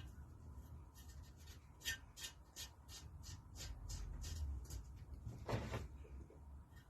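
Small metal parts being handled by hand: a quick run of light clicks and taps as spring washers and nuts are fitted back onto studs, then one louder metallic clink near the end.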